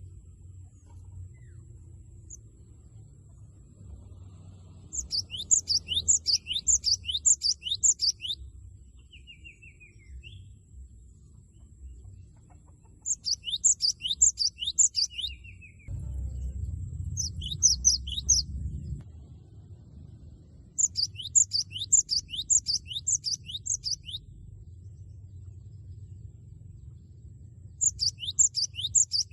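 Cinereous tit (gelatik batu) singing loud, rapid phrases of repeated high, down-slurred notes. Five bursts of song come a few seconds apart, with short pauses between them.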